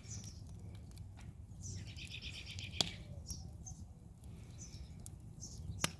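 Birds chirping outdoors, with a quick trill of notes about two seconds in. Two sharp snaps, about three seconds in and near the end, come from the bird feeder's wood burning in the fire pit.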